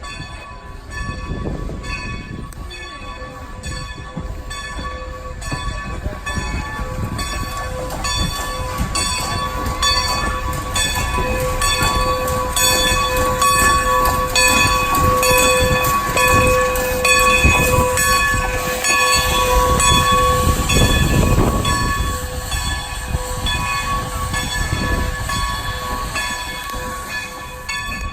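A train going by with a bell ringing steadily the whole time, its repeated strikes sounding over the low rumble of the train, which is loudest in the middle of the stretch.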